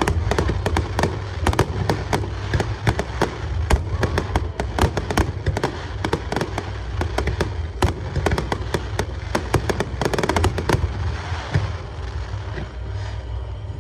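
Aerial fireworks going off in rapid succession: dense sharp cracks and bangs over a continuous low rumble, easing off somewhat near the end.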